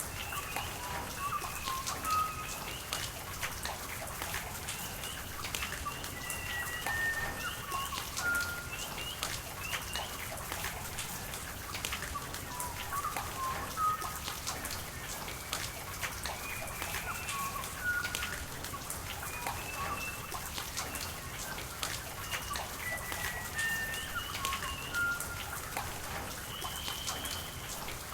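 Steady rain falling, with many individual drops pattering and a constant hiss of running water. Short high chirping bird calls come and go throughout, often in falling two-note pairs.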